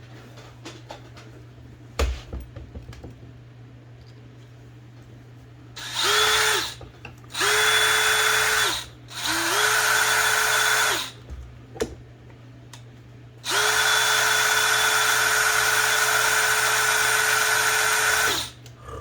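Small electric drill cutting a tiny part in four short runs. Each run spins up to a steady whine, and the last and longest lasts about five seconds. The work is done in bursts because the cut goes poorly once the part heats up.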